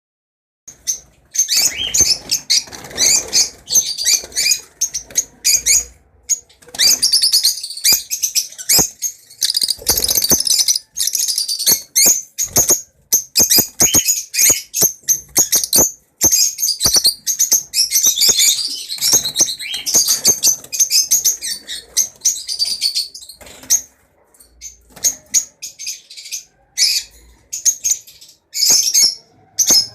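Caged lovebirds chirping and chattering: many shrill, rapid calls overlapping almost without break, with sharp clicks scattered among them.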